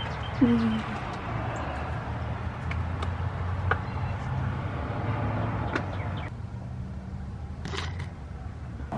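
A car engine running at idle: a steady low hum, with a few faint clicks and a brief falling tone about half a second in.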